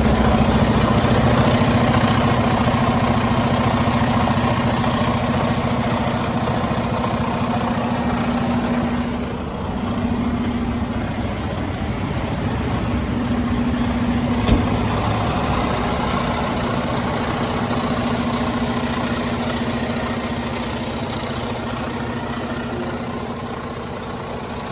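Detroit DD15 diesel engine of a 2020 Western Star 5700XE highway tractor idling steadily, with a single sharp click about fourteen seconds in.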